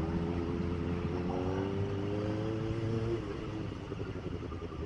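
Kawasaki ZX-25R's inline-four engine running under way, its pitch rising steadily for a couple of seconds; about three seconds in the throttle is closed and the sound drops to a quieter, lower run.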